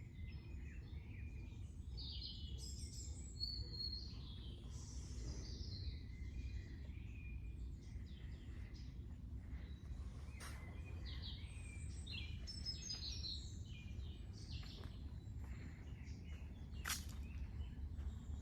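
Several wild birds singing and chirping in short high phrases and trills over a steady low rumble, with a few sharp clicks, the loudest near the end.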